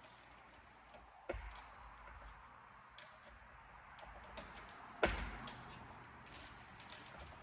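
Light clicks and ticks with two louder knocks, about a second in and again about five seconds in, as of hard parts being handled and set down.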